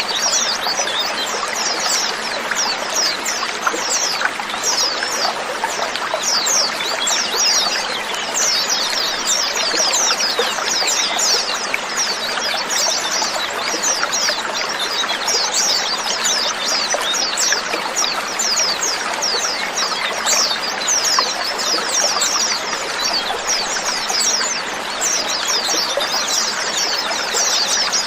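A large flock of white-eyes (pleci) chirping together: a dense, unbroken chatter of many short, high notes that fall quickly in pitch and overlap one another.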